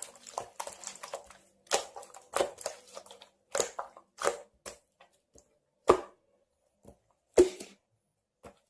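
Irregular light taps and clicks of handling noise, with two louder sharp knocks about a second and a half apart in the second half.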